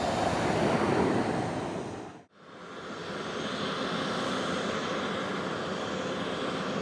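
Steady business-jet engine noise that cuts off abruptly about two seconds in. It then comes back and swells into the steady rush and high whine of a Cessna Citation CJ3's twin turbofans.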